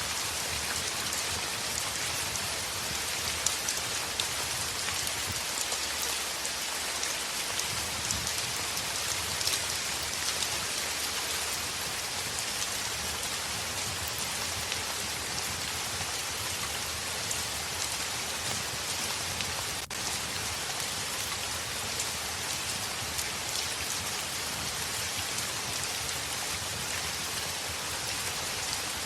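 Heavy rain falling steadily, a dense hiss with many fine drop ticks, as of rain on a window. The level dips for a moment about two-thirds of the way through.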